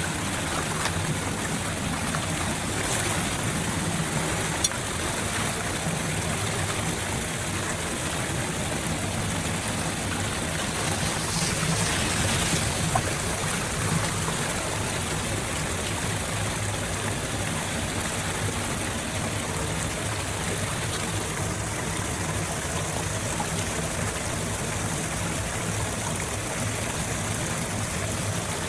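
Steady rush of water flowing through a storm drain, with a couple of brief clicks.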